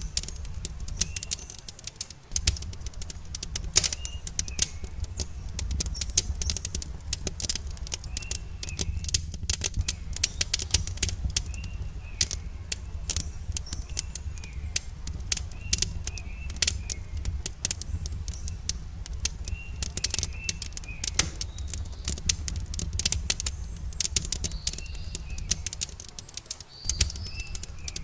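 Campfire crackling, with dense irregular pops and snaps over a steady low rumble. Birds chirp in short repeated phrases in the background.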